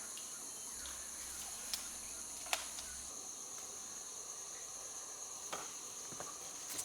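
Steady, high-pitched insect chorus droning without a break, with a few sharp clicks, the loudest about two and a half seconds in.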